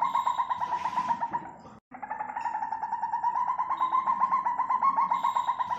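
Malayan civet call: a rapid run of pulses held on one steady note. It cuts out briefly just under two seconds in, then starts again the same way, as a repeating loop.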